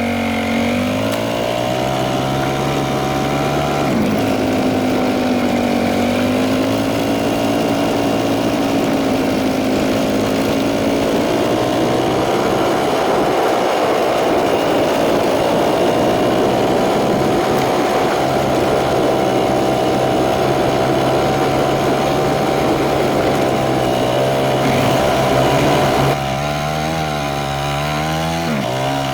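Dirt bike engine running under way, its note rising and falling gently with the throttle. About three seconds before the end the engine eases off and its note drops and wavers.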